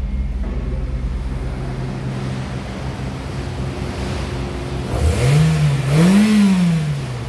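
Toyota 1AZ-FSE 2.0-litre direct-injection inline-four running at a steady idle, then revved twice in quick succession about five seconds in, the pitch rising and falling back each time.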